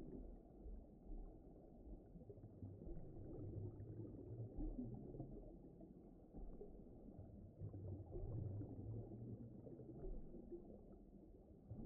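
Underwater ocean ambience: a faint, muffled low rumble that slowly swells and fades.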